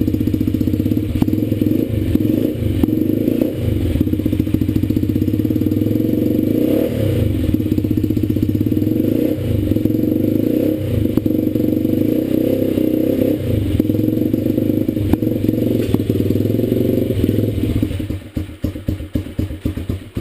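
Dirt Runner dirt bike's small single-cylinder engine idling on full choke after a cold start, warming up. Near the end the running turns uneven, with separate firing pulses.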